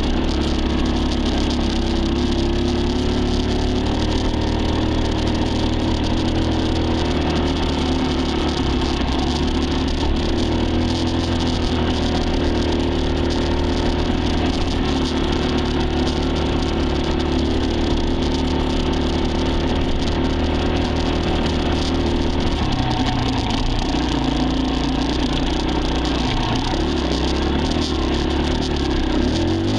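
Dirt bike engine running continuously while riding, its note holding fairly steady and then shifting in pitch about 23 seconds in.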